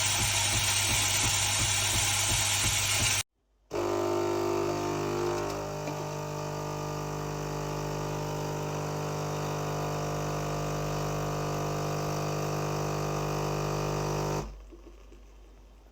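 Philips 5400 Series bean-to-cup espresso machine at work. For the first three seconds there is a loud, rattling grind with a fast pulse, like its built-in bean grinder running. After a brief break comes a steady electric hum from the machine's pump, which stops about 14 seconds in.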